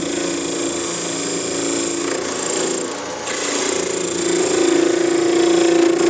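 Wood lathe running with a steady hum and high whine while a parting tool cuts the spinning wood with a scraping hiss. The sound eases briefly about three seconds in, then picks up again.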